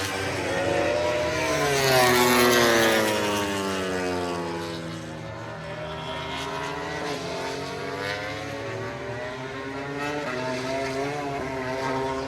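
MotoGP racing motorcycles' four-cylinder engines running at high revs as the bikes pass. About two seconds in, one engine note sweeps down in pitch as a bike goes by, and later notes rise and fall through the gears.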